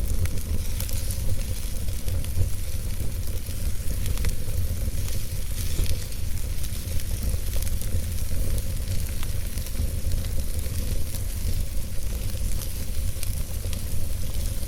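Wood fire burning in a fireplace: logs crackling, with scattered sharp pops over a steady low rumble.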